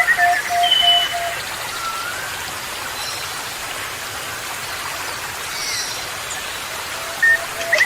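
Birds calling over a steady rain-like hiss. A low note repeats about four times a second at the start and again near the end, with short chirps and whistles at the same times and only faint calls in between.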